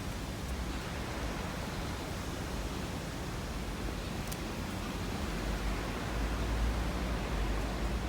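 Steady, even background hiss with a low rumble that grows louder about six seconds in, and a faint tick about four seconds in.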